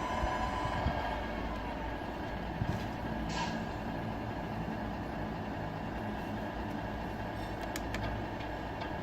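Radio-controlled model truck's sound unit playing a steady diesel truck engine sound, with a short air-brake hiss about three seconds in.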